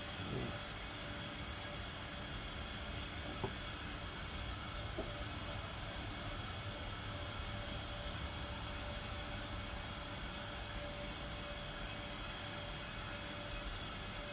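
Steady hiss with three faint clicks or knocks in the first five seconds.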